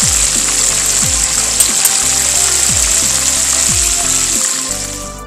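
Milkfish pieces frying in hot oil in a pan, a steady sizzling hiss that fades out near the end. Under it runs background music with a deep bass note that drops in pitch, repeating roughly once a second.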